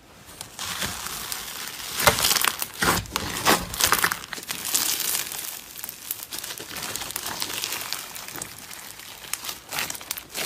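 Slime being squeezed and worked by hand, giving a dense run of crackling and popping, loudest a couple of seconds in.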